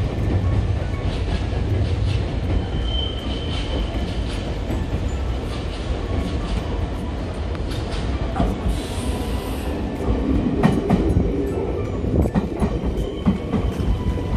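Electric commuter trains moving through a station's tracks with a steady low running rumble. About three seconds in there is a brief high wheel squeal, near nine seconds a hiss of air, and from about ten seconds the wheels of a Senboku Rapid Railway 3000 series train click and knock over rail joints and points.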